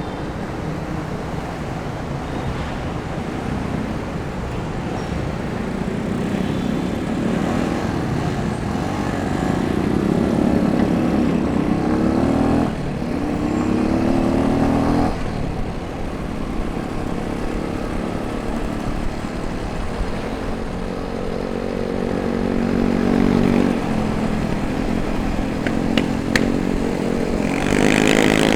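Motorcycle engine running under way, its pitch climbing as it accelerates and dropping sharply at gear changes about halfway through, over steady wind rush on the microphone.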